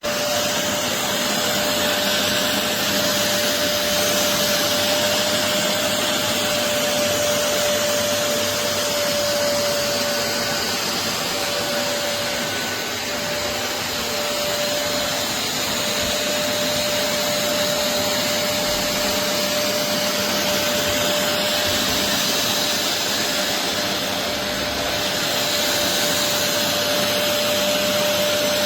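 BISSELL Revolution HydroSteam Pet upright carpet cleaner running: a loud, steady suction-motor rush with a constant hum through it, cutting in suddenly at the start.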